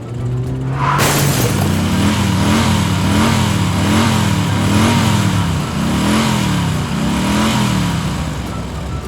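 Engine running. About a second in a loud hiss sets in, and the engine's pitch rises and falls over and over, about every 0.6 seconds.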